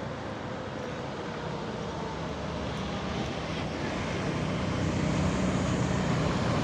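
Road traffic: a passing vehicle's engine and tyre noise growing steadily louder as it approaches.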